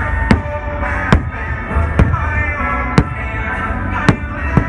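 Fireworks shells bursting in about six sharp bangs, roughly a second apart, over the show's music soundtrack playing throughout.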